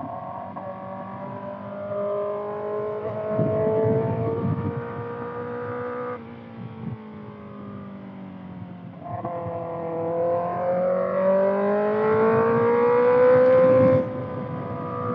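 Kawasaki ZX-6R's 636 cc inline-four through a Voodoo slip-on exhaust, accelerating. The engine pitch climbs, drops at a gear change about six seconds in, climbs again from about nine seconds, and drops sharply at another shift near the end.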